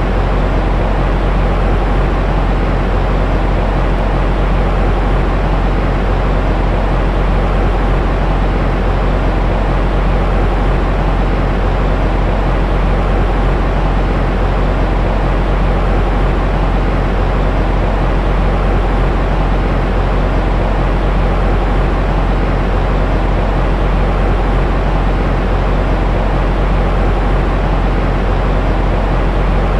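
Steady, unchanging white noise for settling a baby to sleep, weighted toward a deep rumble with little high hiss.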